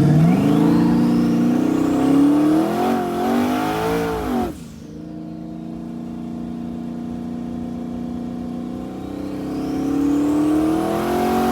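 Twin-turbo LS V8 in a Camaro accelerating hard under full throttle, its note climbing for about four seconds with a high whine rising alongside. It then lifts off abruptly to a steady lower drone and climbs again near the end.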